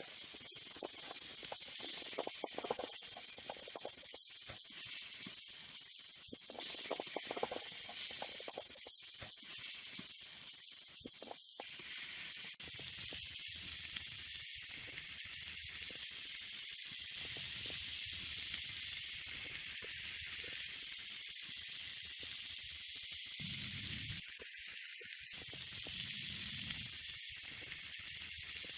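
Lamb kokoreç sizzling on a hot tin sheet over a campfire: a steady frying hiss.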